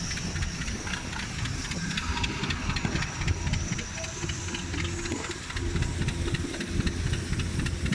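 Running engine-driven machinery with a steady hiss and a rapid clatter of ticks over a low rumble.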